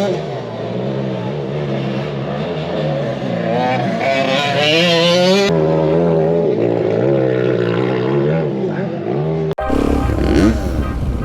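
Dirt bikes being ridden around a motocross track, their engines revving up and down through the gears. One gets louder and higher as it comes close, about four to five seconds in. Near the end the sound cuts suddenly to a louder, rougher engine rumble.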